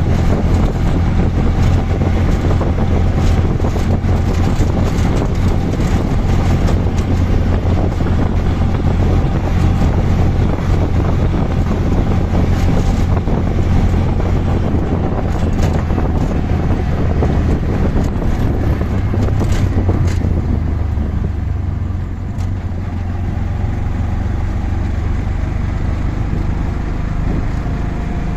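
Auto rickshaw's small engine running under way, with road and wind noise. The engine and road noise drop somewhat about three-quarters of the way through.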